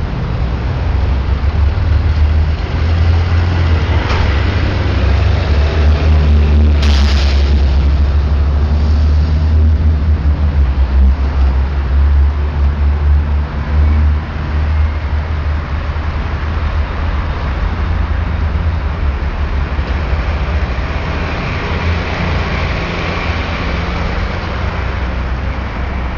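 Fire truck engine running steadily with a loud low rumble, with a short hiss about seven seconds in.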